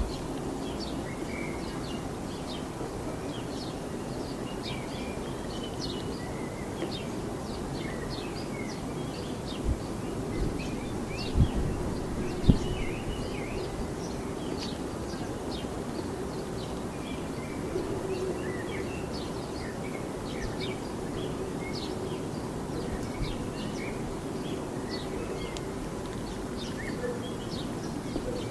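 Many small birds chirping in short, scattered calls over a steady low rumble of road traffic. A few dull low thumps come about ten to thirteen seconds in.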